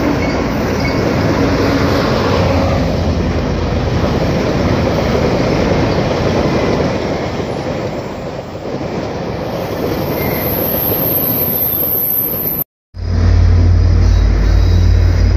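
GO Transit bi-level commuter train passing: a steady rumble and rattle of wheels on the rails. The sound cuts out suddenly just before the end and picks up again with a heavier, deeper rumble as a diesel locomotive heads away down the tracks.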